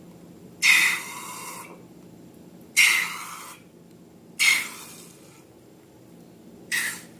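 Slime being squeezed and squished, four short wet squelches a second or two apart, each sharp at the start and fading.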